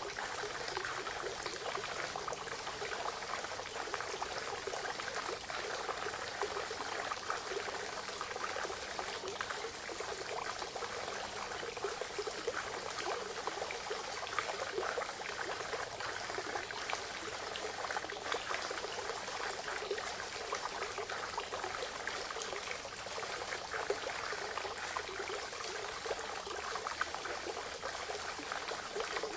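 Water of a small forest spring pouring and trickling steadily, a continuous splashing babble with fine droplet ticks.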